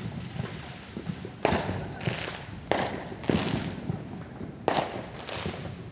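Fireworks going off: three sharp bangs about a second or two apart, each followed about half a second later by a crackling, hissing burst.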